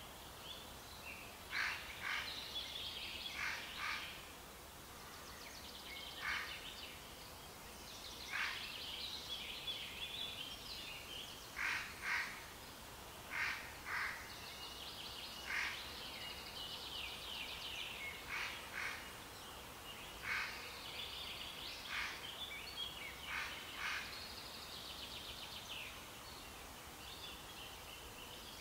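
Songbirds chirping and calling: short, sharp notes every second or so, mixed with quicker twittering, over a faint steady background hiss.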